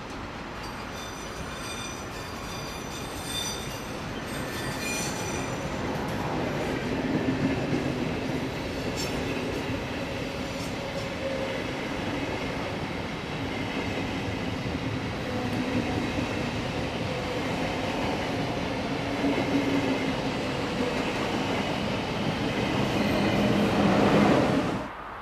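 A train running through a station with a steady rumble of wheels on rails that grows louder towards the end. Steel wheels squeal high in the first few seconds. The sound cuts off suddenly just before the end.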